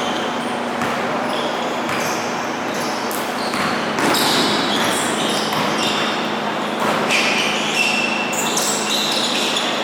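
Basketball game in a gym: a ball bouncing on the court amid scattered background voices, echoing in the large hall.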